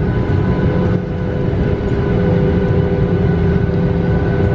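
Jet airliner cabin noise: a steady engine rumble with a constant whine, heard from inside the plane on the ground while it taxis back to the terminal.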